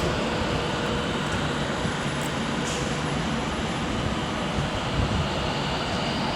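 Steady rushing hum of electric trains at a station platform, with a faint steady tone running through it.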